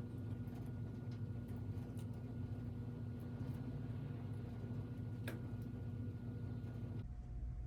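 Steady low electrical hum with a few faint clicks, one more distinct about five seconds in; the background hum changes abruptly near the end.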